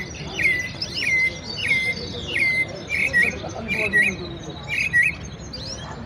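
A bird calling loudly and repeatedly, about seven sharp notes a little under one a second, each sliding down in pitch and then holding briefly; the last few come as quick doubled notes. Fainter chirping of other birds runs underneath.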